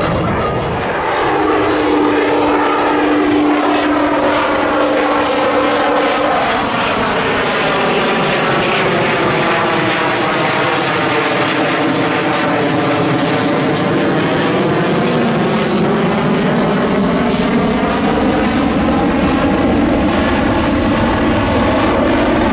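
Aircraft flying past overhead: a loud, steady rushing noise whose tone sweeps as it passes, with a steady hum in the first few seconds.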